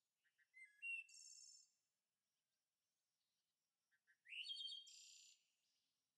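A bird singing faintly, two short phrases: each starts with a few quick chirps and sweeps up into a buzzy trill lasting about a second, the first soon after the start and the second about four seconds in.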